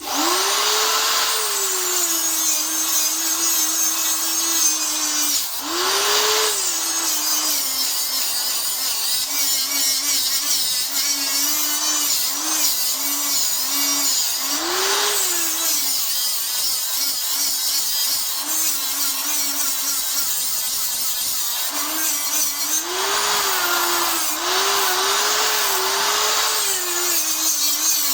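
Angle grinder grinding down a weld on a motorcycle exhaust, with a steady hiss of the disc on metal. The motor pitch drops and holds while the disc bears on the work and rises briefly each time it is eased off, several times over.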